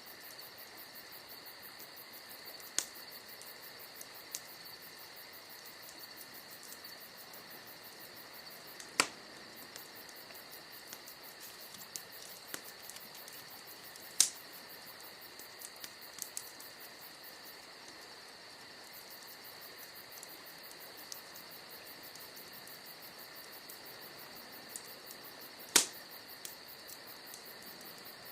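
Bonfire wood crackling, with a handful of sharp pops spread through, the loudest three well apart, over a steady chirring of crickets.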